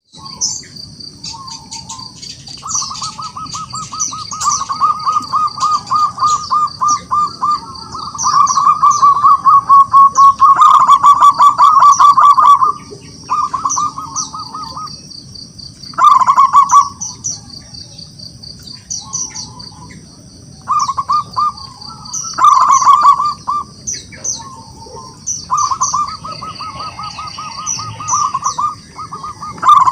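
Zebra dove (perkutut) calling: repeated runs of fast, staccato cooing notes lasting a second to several seconds each, the territorial call that challenges rival doves. Short high-pitched chirps from another small bird and a faint steady high tone run behind it.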